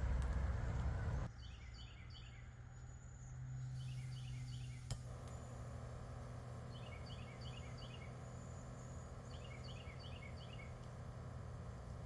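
A songbird singing short phrases of quick descending notes, repeated four times a couple of seconds apart, over a steady low hum. A low rumble stops abruptly just over a second in, and there is a single sharp click about five seconds in.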